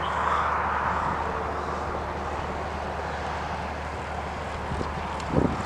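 Airliner engine noise: a broad, steady rush that eases over the first couple of seconds and then holds lower. Two short low thumps come near the end.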